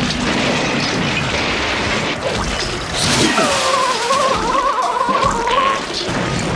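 A long, loud crash of smashing and clattering as an engine ploughs into a building, with music under it. In the middle there is a wavering whistle-like tone for a couple of seconds.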